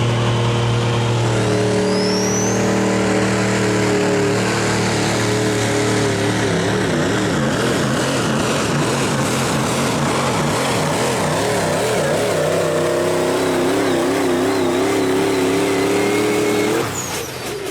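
7.3-litre diesel engine of a pulling truck running hard under load during a pull. A high whistle rises about two seconds in, the engine note wobbles up and down through the middle, and the sound drops off sharply near the end as the throttle comes off.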